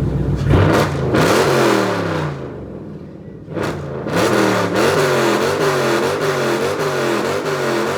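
Car engine revved hard twice, its pitch falling away after each rev, then blipped up and down in quick repeated revs about one and a half times a second.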